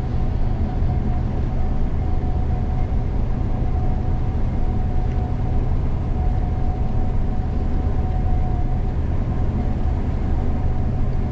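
Steady low rumble of a Gleaner combine harvester running in the field, heard from inside the cab, with a faint steady whine that fades out near the end.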